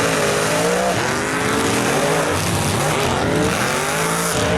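Big mud truck's engine revving hard, its pitch climbing and dropping several times.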